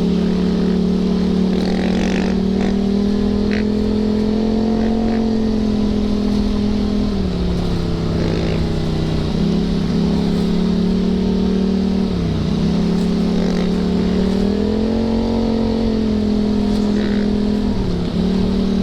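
Yamaha YZ450FX single-cylinder four-stroke dirt bike engine running steadily while riding. Its pitch drops briefly and recovers about four times, with rough noise underneath.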